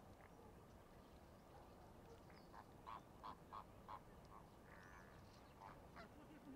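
A bird calling over faint outdoor background: a quick run of four short calls about a third of a second apart, midway through, followed by a couple of fainter calls.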